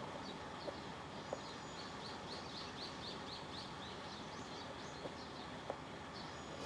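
Small birds chirping: a quick run of short, high, repeated notes through the first half, then scattered single chirps, over a steady outdoor hiss.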